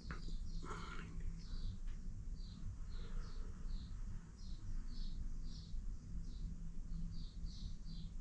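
A small bird chirping over and over, short high chirps about two a second, faint over a low steady hum.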